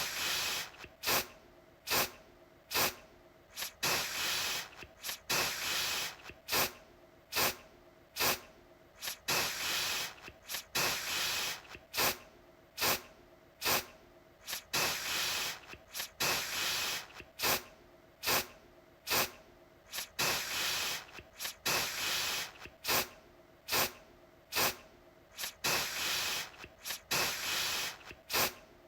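Aerosol deodorant can sprayed in repeated short bursts, about one a second. Each begins with a sharp click of the nozzle followed by a hiss, some brief and some held for about a second.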